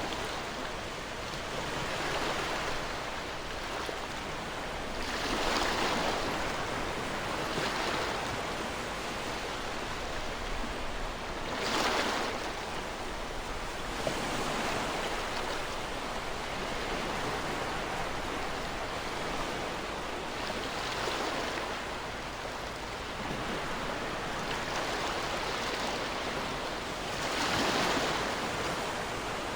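Ocean waves breaking on a shore: a continuous wash of surf that swells and recedes every few seconds, the loudest breakers near the middle and near the end.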